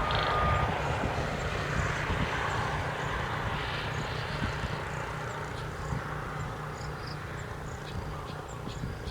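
A steady rushing rumble, like a passing aircraft, slowly fading away, with a few faint high chirps in the second half.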